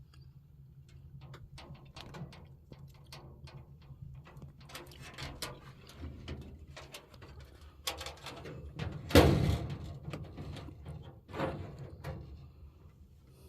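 Handling noises: a run of small clicks and rustles, with a loud knock about nine seconds in and a smaller one a couple of seconds later.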